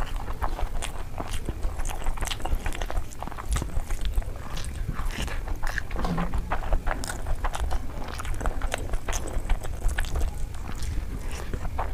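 Close-up eating sounds from hand-eating rice and curry: chewing with many short, irregular wet mouth clicks and smacks.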